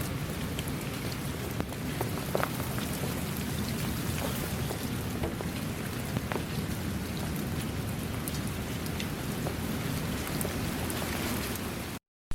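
Steady rain with individual drops striking close by, over a low rumbling undertone. It cuts off abruptly to silence near the end.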